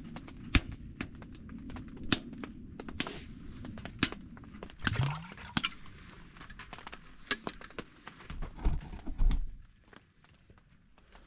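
Freshly lit wood stove fire crackling, with sharp irregular pops and ticks over a low rumble. A few heavier thumps come near the end, after which it goes quieter.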